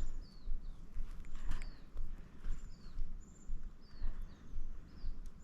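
Small bird chirping: a string of short, high, falling chirps, roughly one or two a second, over a low rumble of wind or handling noise on the microphone.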